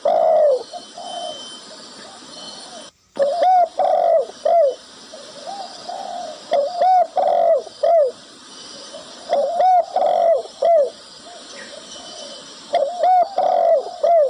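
A dove cooing: repeated phrases of several rounded, arching coo notes, with a new phrase about every three seconds. The sound drops out briefly about three seconds in.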